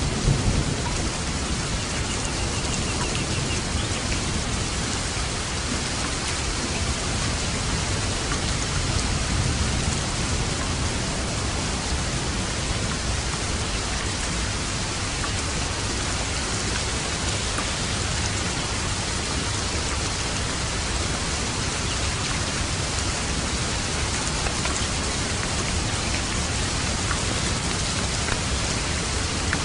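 Steady rainfall, an even hiss of drops, with a low rumble of thunder dying away in the first second.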